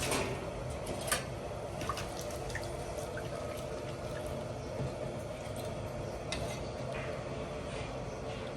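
Water trickling and dripping, with a few small clicks and plinks.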